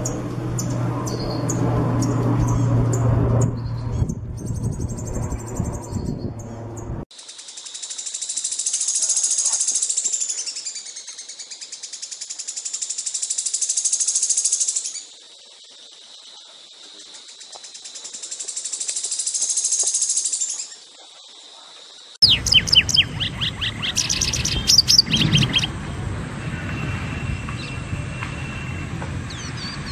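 Songbirds singing in three separate recordings. First come rapid high chirps over a low steady hum, then a long, very high, fast trill that swells and fades twice, then sharp repeated chirps over background noise.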